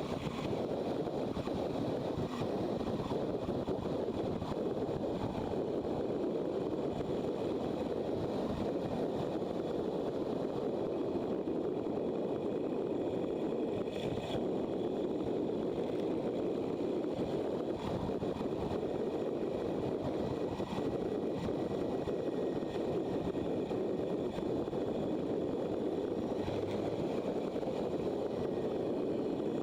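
Steady rush of wind and running noise from a motorcycle under way, unbroken throughout.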